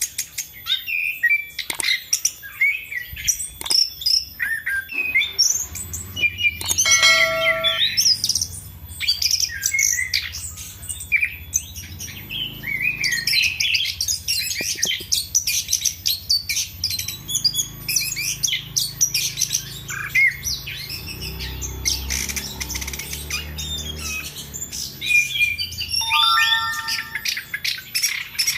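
Chestnut-capped thrush (anis kembang) singing in full, non-stop song: a fast, varied stream of high chirps, whistles and trills. A couple of lower, buzzier notes come in about seven seconds in and again near the end.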